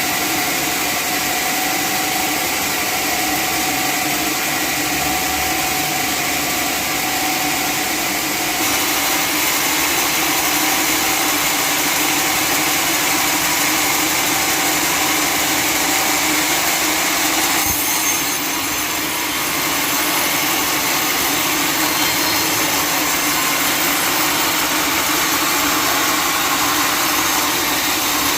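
Sawmill machinery running steadily: a constant mechanical hum under a broad hiss, shifting slightly about eight seconds in and dipping briefly near eighteen seconds.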